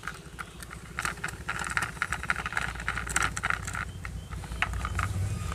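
Small screws being tightened with a screwdriver into a plastic toy car body: an irregular run of small clicks and scrapes, over a low steady hum.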